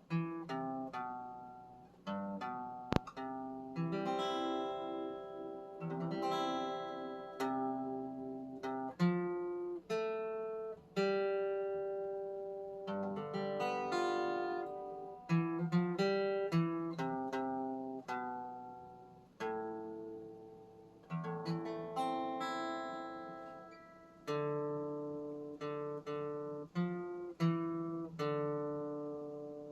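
Acoustic guitar playing an instrumental passage of plucked and strummed chords, each ringing out and fading in a slow, even rhythm. There is one sharp tap about three seconds in.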